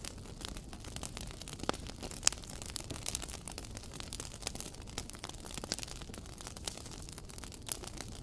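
Wood fire crackling in a fireplace: irregular sharp pops and snaps over a low, steady rumble of the flames, with the loudest snaps about two seconds in.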